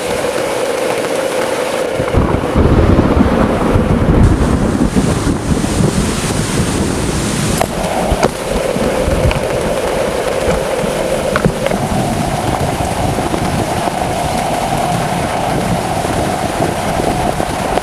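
Heavy thunderstorm rain pouring down, with a deep rumble of thunder starting about two seconds in and lasting several seconds.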